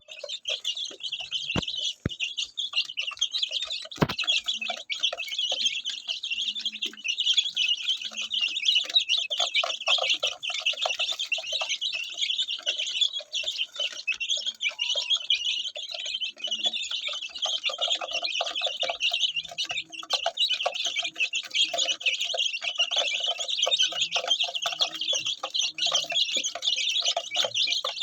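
Many young chicks peeping at once, their high chirps overlapping into a continuous dense chatter. A few sharp knocks sound in the first few seconds.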